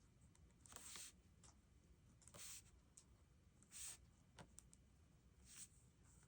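Faint scratchy strokes of a pen on planner paper: four short strokes about a second and a half apart, with a few small clicks between them.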